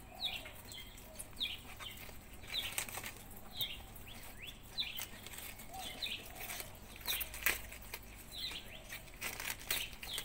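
A bird chirping over and over, short high chirps that drop in pitch, about one a second, with fainter lower calls behind. Scattered crinkly crackles of cabbage leaves being handled and chewed by rabbits come between the chirps.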